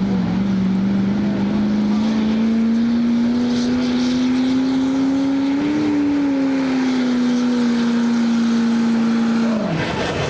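Work stock diesel pickup truck engine running hard under full load while pulling the sled, its note climbing slowly, easing back slightly, then dropping away near the end as the driver lets off.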